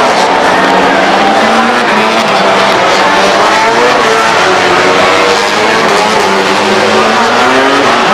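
Several racing motorcycle engines at high revs, their pitches rising and falling over one another as the bikes accelerate and shift.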